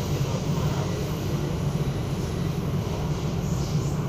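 Steady low rumble and hiss inside the passenger cabin of an MTR K-stock electric train while it runs along the line.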